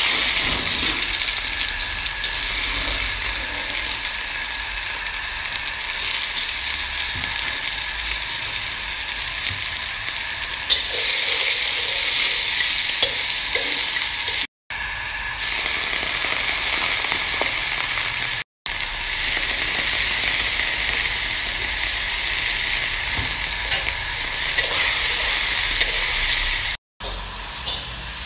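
Carrot and green pepper strips sizzling and being stir-fried in a hot wok, a loud steady hiss of frying, cut off three times by brief moments of silence.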